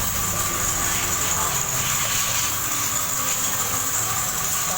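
Steady hiss of water spraying from a pressure washer at a motorcycle wash.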